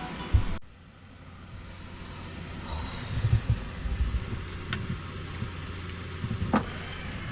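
Background music that cuts off abruptly just under a second in, followed by a steady low rumble with scattered knocks and thumps.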